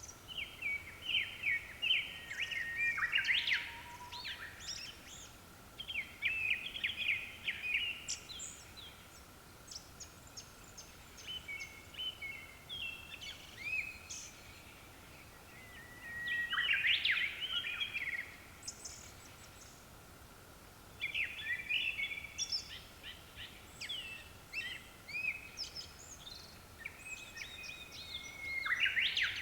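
Japanese thrush (kurotsugumi) singing: bouts of quick, varied phrases repeated with short pauses between them, over a faint steady high tone.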